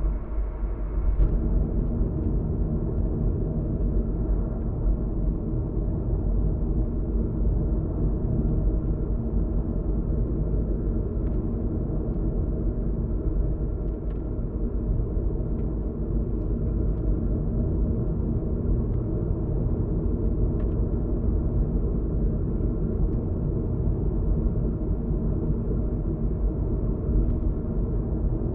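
Steady low rumble of a car being driven, tyre and engine noise heard from inside the cabin.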